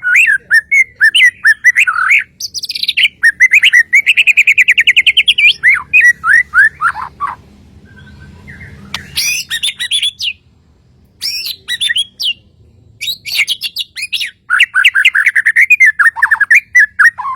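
Bornean white-rumped shama (murai batu Kalimantan) singing loud, varied phrases: rapid trills of quick repeated notes around a middle-high pitch, sliding whistles and sharp high notes, given in several bursts with brief pauses between them.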